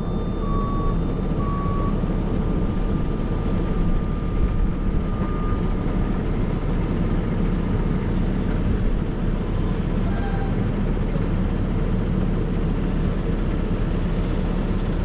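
Truck engine running steadily with a low rumble, while a backup alarm beeps a few times in the first two seconds.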